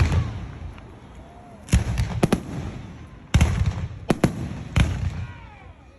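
Aerial fireworks shells bursting: a string of about six loud, sharp bangs a half second to a second apart, each trailing off in a low rumbling echo.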